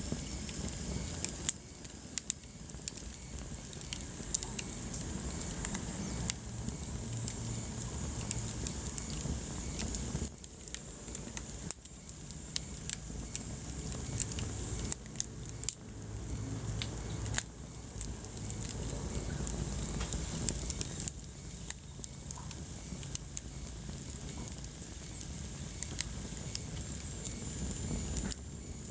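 Wood fire burning in a fireplace: steady low rumble and hiss with frequent irregular sharp crackles and pops.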